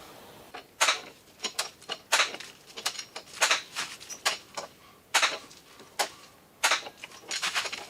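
Spot-weld dent puller working a dented steel car door: a series of sharp, irregularly spaced clicks and snaps, about two a second.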